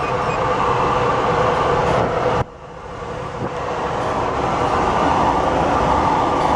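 Steady rush of airflow around the DG1000 glider's cockpit in flight, with no engine. It drops sharply about two and a half seconds in, then builds back up over the next couple of seconds.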